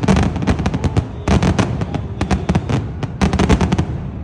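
Aerial fireworks bursting in rapid volleys, dozens of sharp bangs and crackles packed into three dense clusters with short gaps between them.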